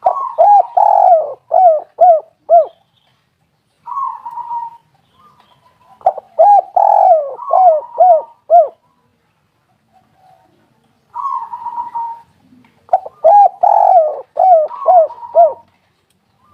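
Spotted dove (tekukur) cooing: three phrases about six seconds apart, each a run of about five short arched coos. The second and third phrases follow a softer buzzy lead-in note.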